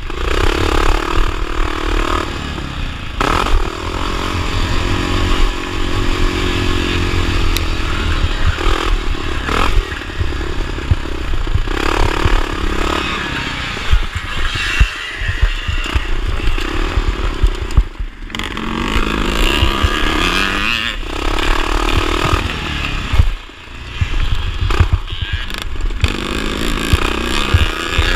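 A 1979 Honda XR500's single-cylinder four-stroke engine racing off-road, revving up and down as the throttle is worked, with scattered knocks. The throttle closes briefly about eighteen seconds in and again about twenty-three seconds in.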